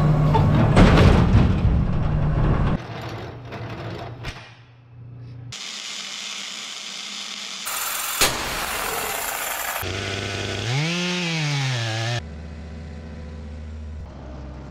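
Short cut-together pieces of tree-work machine sounds: power saws and engines, each piece starting and stopping abruptly, with one engine revving up and back down about two-thirds of the way through.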